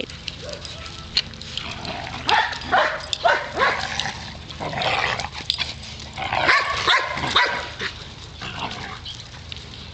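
Dogs barking, a series of short calls scattered through, with a cluster of them about two to four seconds in and another near seven seconds.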